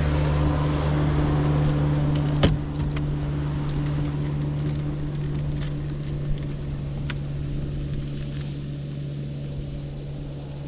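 Engine of a motorized watercraft running steadily with a low drone that slowly fades, with one sharp knock about two and a half seconds in.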